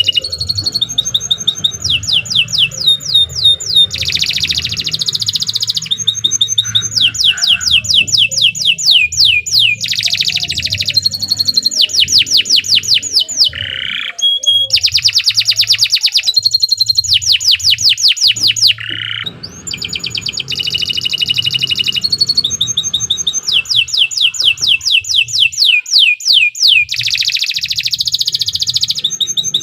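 Domestic canary singing one long, continuous song of fast repeated trills and rapid downward-sweeping notes. Each phrase repeats for a second or two before it switches to the next, with one short break about two-thirds of the way through.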